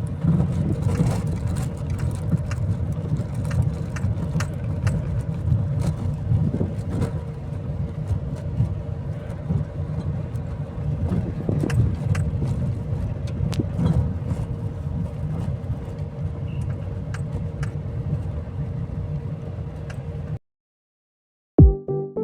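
A vehicle running steadily, a low rumble with many scattered knocks and rattles. It cuts off suddenly near the end.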